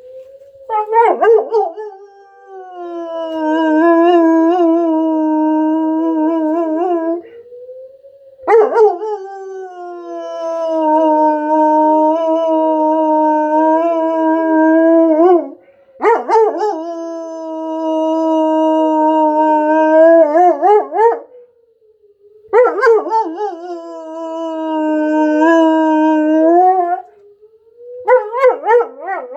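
A German Shepherd howling along with a tornado warning siren. There are four long howls of several seconds each, with a fifth starting near the end, each opening with a sharp rise in pitch and then held. Underneath, the fainter siren tone slowly rises and falls.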